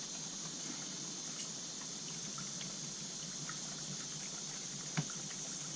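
Steady background hiss with faint, scattered small clicks and one sharper click about five seconds in, from chainsaw parts and fasteners being handled during reassembly.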